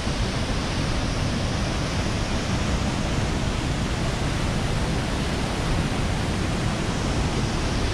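Steady rushing roar of a waterfall, an even noise with no break.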